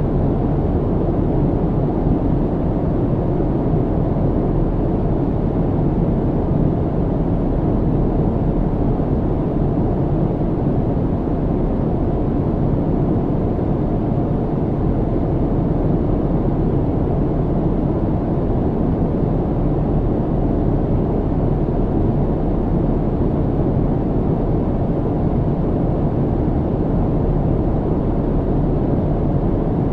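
Airplane cabin noise in flight: a steady, even low rumble with little high hiss.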